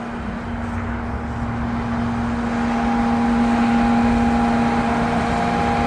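Tow truck's engine running with a steady hum, growing louder in the second half as a higher whine joins in.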